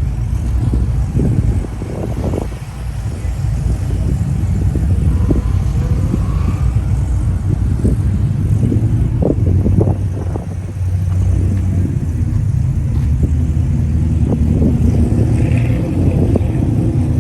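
Vehicle engines running with a steady low rumble, with occasional short pops or knocks.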